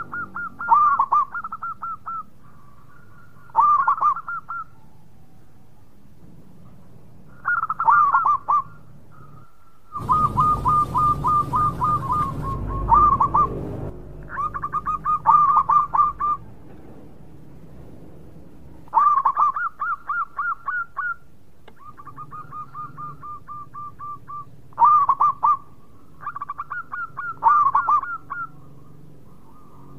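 Zebra doves (perkutut) cooing: bouts of rapid, pulsed coo notes repeated every few seconds, some phrases fainter than others. About ten seconds in, a few seconds of rumbling noise sound under the calls.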